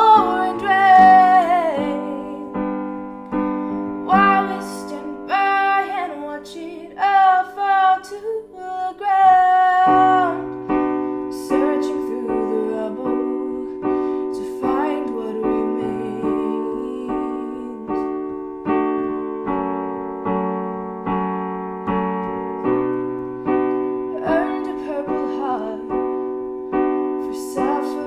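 A female voice sings a slow melody over piano chords. After about ten seconds the voice drops out, and the piano carries on alone, playing steady chords about once a second.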